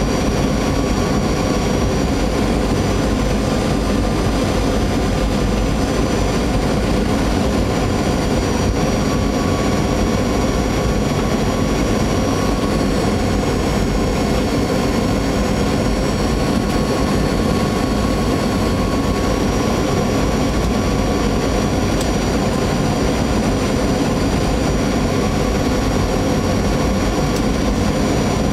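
Steady jet-engine and airflow noise inside a Boeing airliner's cabin during the descent for landing, with faint engine whine tones that waver slowly in pitch.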